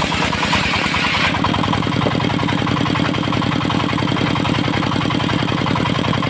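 Dongfeng diesel engine powering a circular sawmill, running steadily with an even, rapid chugging. A higher hiss over it stops about a second in.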